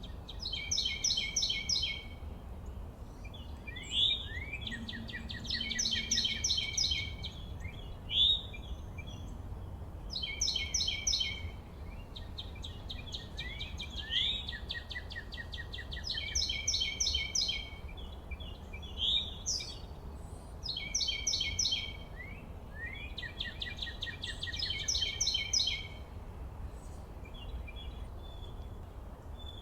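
Songbirds singing: a fast trilled song of rapid high notes repeated every few seconds, with short chirps between, over a steady low rumble.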